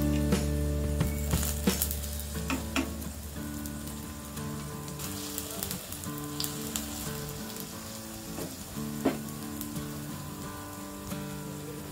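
Potato pancake batter (aloo cheela) frying in oil in a nonstick pan: a steady sizzle with scattered sharp crackles and pops. Soft background music runs underneath.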